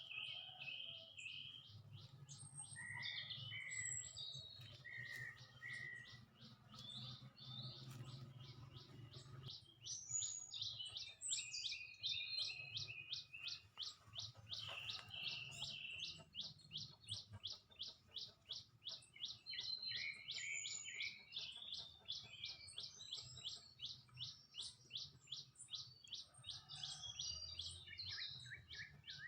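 Small songbirds chirping at a feeder, several calls overlapping. About a third of the way in, a rapid run of short, evenly spaced chirps at about four a second starts and keeps going. A faint steady low hum lies underneath.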